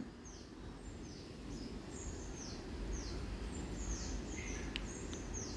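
Caged birds in an aviary making a faint, steady series of short, high chirps that fall in pitch, two or three a second, over a low rumble.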